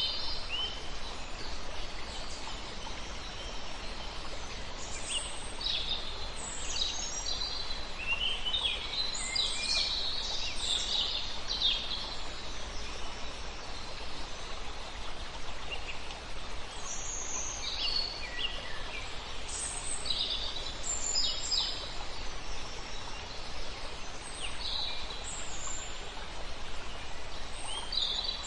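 Several songbirds chirping and trilling in spells, with a quieter gap near the middle, over the steady rush of a flowing river.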